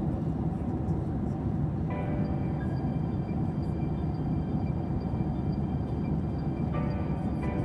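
Steady roar of a Boeing 737's jet engines and airflow heard inside the passenger cabin, with faint steady whining tones coming in about two seconds in.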